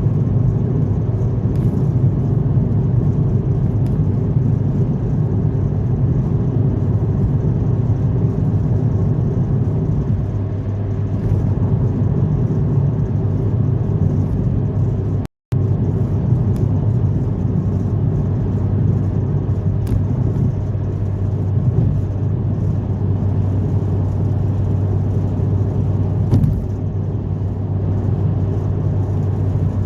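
Car driving at a steady pace: a low, steady engine drone mixed with tyre and road rumble. The sound cuts out completely for a split second about halfway through.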